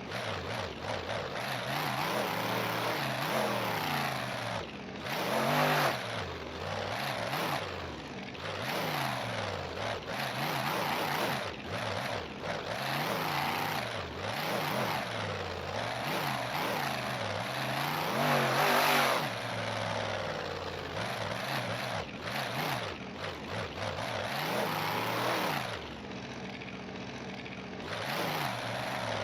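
Monster truck engine revving hard again and again, its pitch climbing and falling with each blip of the throttle, with the loudest bursts near a quarter of the way in and around two-thirds through.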